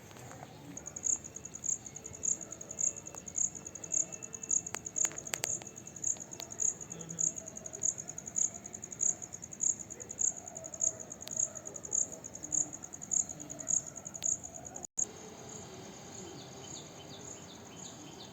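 Cricket chirping in a steady rhythm, high-pitched, about two chirps a second. It cuts off suddenly near the end, leaving a fainter, quicker insect ticking.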